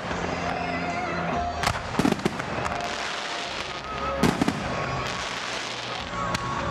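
Fireworks going off: a few sharp bangs about two seconds in and again past the middle, with a crackling hiss of burning stars between them.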